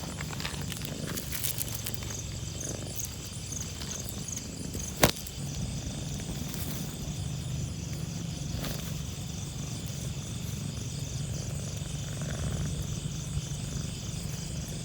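Outdoor ambience: a steady low hum under high, repeating insect chirps, with one sharp click about five seconds in.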